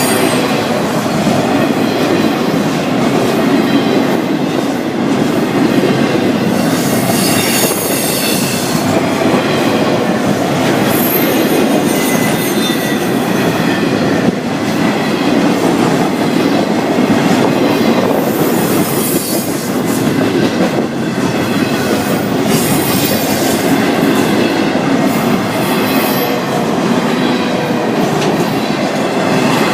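Long Florida East Coast Railway freight train rolling past at low speed, its steel wheels clacking over the rail joints, with brief high-pitched wheel squeals now and then.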